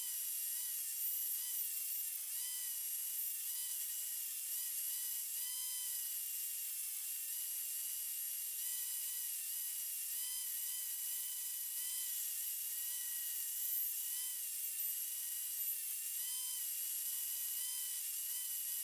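Small high-speed power tool motor whining steadily at a high pitch, the tone dipping briefly now and then as if under light load.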